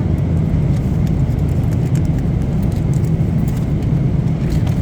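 Steady low drone of an airliner cabin in flight, the engine and air-system noise, with a few faint clicks over it.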